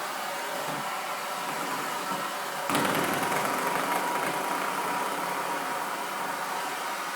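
Central vacuum cleaner running steadily with a faint whine; about two and a half seconds in the suction noise turns suddenly louder and brighter, then eases back over the next few seconds.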